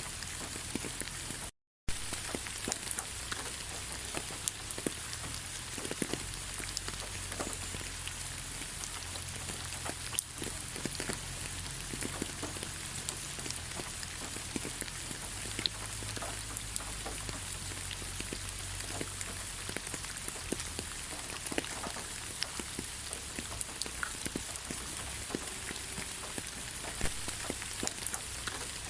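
Steady rain falling, with many individual drops ticking and pattering over a constant hiss. The sound cuts out completely for a split second about a second and a half in, then resumes.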